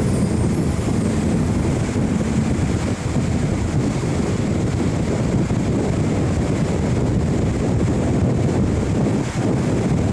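Steady wind noise on the microphone over the low, even rumble of a ferry under way at sea.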